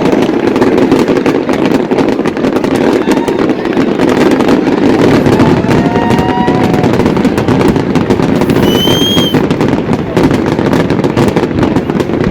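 Fireworks display going off continuously: a dense run of bangs and crackling with no pause. Short whistling tones cut through about six seconds in and again about nine seconds in.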